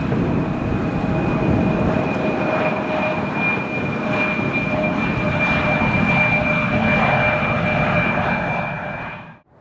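Jet airliner's engines running, a broad rumble with a steady high whine over it, fading out sharply just before the end.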